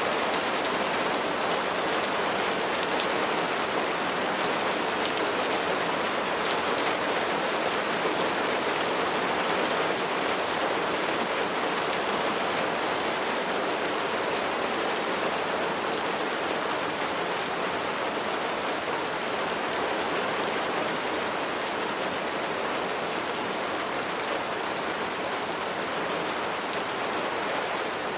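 Steady rain falling, a constant hiss with fine ticks of individual drops striking a surface.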